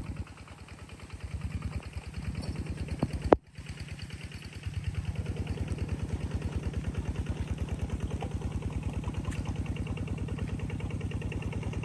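A small engine running steadily at a slow, even firing beat. It drops out briefly once, a few seconds in, then runs on.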